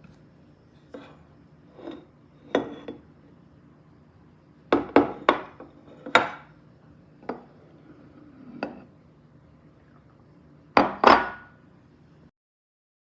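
Glass food storage containers clinking and knocking against each other as they are handled and nested or stacked. There are about a dozen separate knocks, with a quick cluster about five seconds in and a loud pair near the end.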